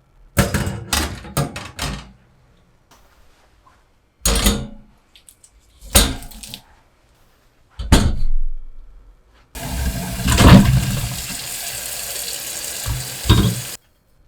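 Kitchen items knocking and clattering several times, then water running from a tap in a steady rush for about four seconds before it is shut off.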